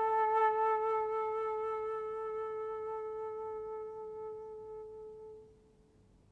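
Solo flute holding one long, slightly wavering note that slowly fades away and stops about five and a half seconds in.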